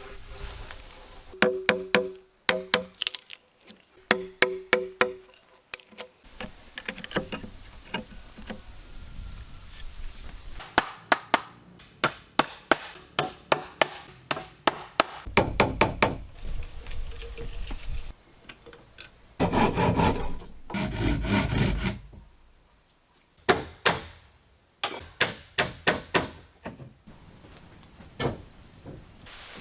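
Hand-tool work on wood: series of sharp hammer blows, the first few ringing with a metallic pitch like nails being driven. There are two stretches of steady rough scraping on wood in the middle, one short and one about two and a half seconds long.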